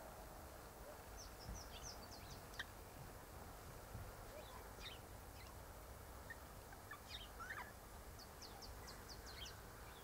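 Faint, high chirping bird calls in short quick runs: a cluster of notes about a second in, a few scattered notes midway, and another run near the end.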